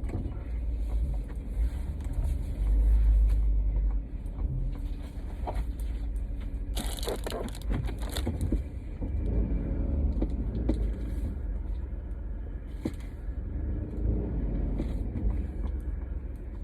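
A car driving in heavy rain, heard from inside the cabin: a steady low road and engine rumble under an uneven hiss of water. About seven seconds in there is a louder burst of hiss.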